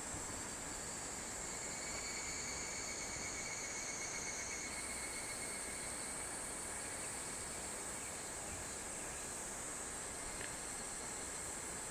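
Summer insects, cicadas among them, calling together in steady, overlapping high tones over an even hiss. The highest tone jumps up in pitch about five seconds in.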